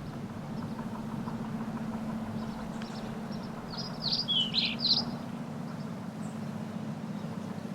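A bird chirping several times in quick succession around the middle, over a steady low hum.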